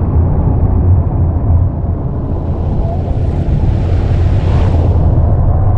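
Speedboat engine running steadily under way, a loud low drone with a rushing noise over it.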